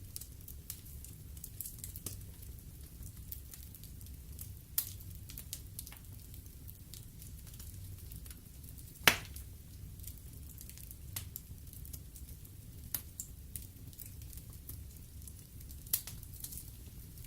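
Wood fire burning in a fireplace: a steady low rumble of flames with scattered sharp crackles and pops, the loudest pop about halfway through.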